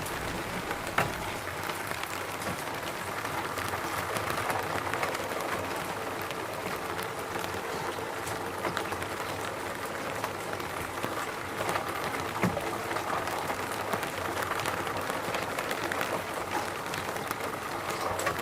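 Steady rain falling, with occasional close drops landing as sharp ticks over the even hiss.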